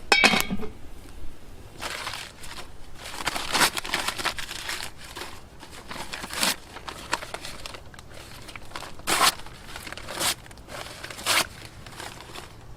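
Irregular rustling and crinkling noises, a string of short dry crunches and scrapes with no steady rhythm.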